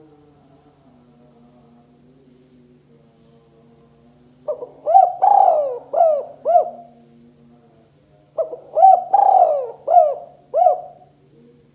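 Spotted dove (tekukur) cooing: two calls, one about four and a half seconds in and another about eight and a half seconds in, each a short run of rising-and-falling coo notes.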